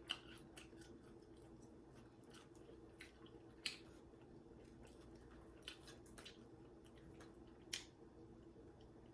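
Quiet eating sounds: scattered wet mouth clicks and smacks of someone chewing food, about a dozen sharp ones spread irregularly, over a faint steady hum.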